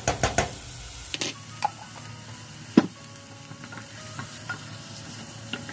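Diced onions and garlic sizzling steadily in butter in a saucepan while being stirred, with spoons clicking and knocking against the pan: a quick cluster of clicks at the start, then single knocks, the sharpest a little under three seconds in.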